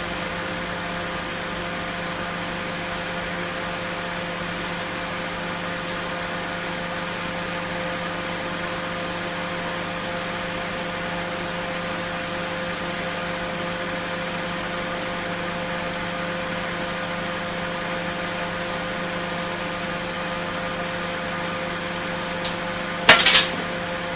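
Microwave oven running with a steady hum, with a single loud sharp crack near the end.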